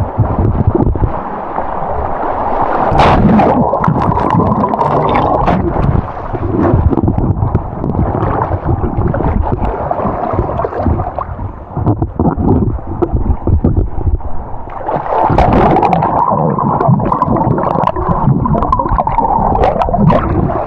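Swift river current rushing and gurgling around a camera held underwater, with scattered clicks and knocks.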